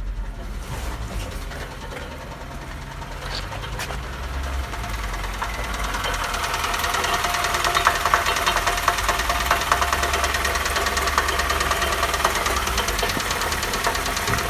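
Nissan QG18DE 1.8-litre four-cylinder petrol engine running, with a rapid, even mechanical ticking that grows louder about a third of the way in, and a few sharper clicks in the middle.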